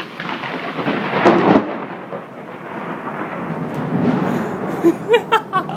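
Thunder rumbling after a lightning strike, loudest about a second in, over the steady hiss of rain and pea-sized hail falling.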